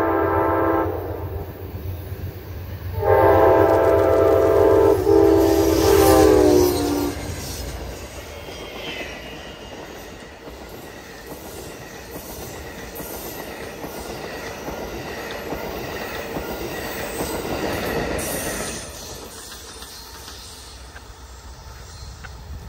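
Locomotive air horn sounding a chord in two long blasts. The second blast drops in pitch as the locomotive passes. Then comes the locomotive's engine rumble and the steady rolling of the Alstom Avelia Liberty (Acela II) trainset's wheels over the rails, which fades away about 18 seconds in.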